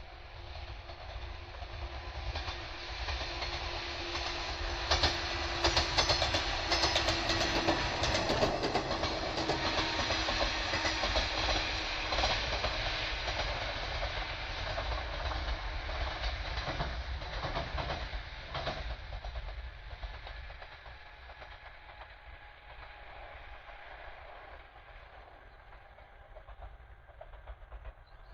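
A train passing close by, its wheels clattering over the rail joints. It builds up over the first few seconds, is loudest from about five to thirteen seconds in, and fades away after about twenty seconds.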